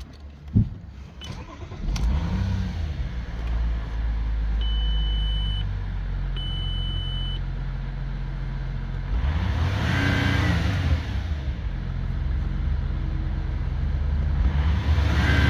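Audi 2.7 TDI V6 diesel engine starting about two seconds in and idling, then revved up and back down twice. Two steady beeps of about a second each sound a few seconds after the start.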